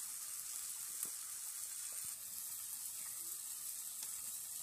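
Egg and soyabean curry frying in a wok over a wood fire: a steady sizzle, with a couple of faint clicks.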